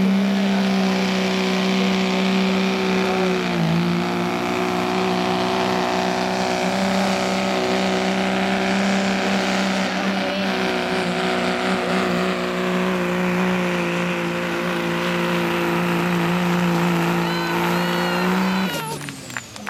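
Diesel pickup truck engine held at steady high revs under full load while pulling a sled, with a brief dip in revs about four seconds in. It cuts off suddenly near the end.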